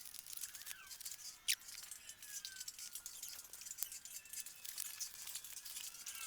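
Faint crinkling and crackling of plastic wrapping being pulled off a new engine, with scattered small ticks and one sharper click about a second and a half in.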